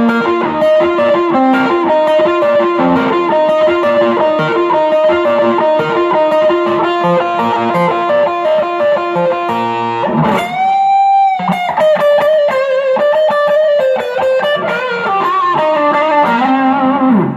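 M-Musi Virgo Fusion electric guitar on its neck pickup, played through an amp: quick single-note lead lines, with one long held note bent in vibrato about ten seconds in.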